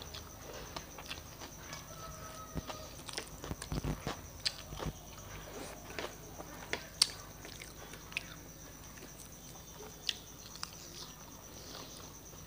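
A person chewing mouthfuls of rice and dal with wet smacks and mouth clicks, with fingers squishing and mixing rice on a plate. The smacks come irregularly, busiest a few seconds in.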